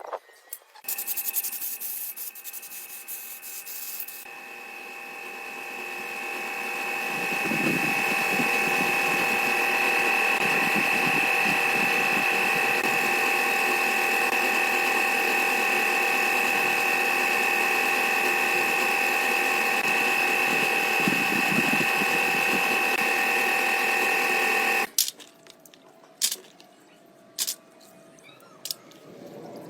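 Small electric power tool running: a few seconds of harsh grinding noise, then a steady high motor whine that builds over a few seconds, holds, and cuts off suddenly near the end, followed by a few light clicks.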